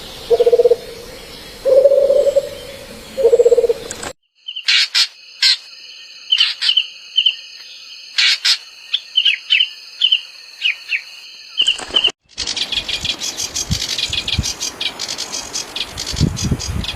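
Bird calls spliced from separate recordings. First comes a low call repeated about once a second. After a sudden cut, short high chirps and whistles follow. From about twelve seconds in, rapid high chirping runs densely.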